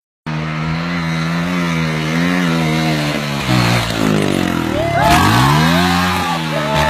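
Motorcycle engine running at a steady idle, then revved up and back down twice. Higher whining tones bend over it near the end.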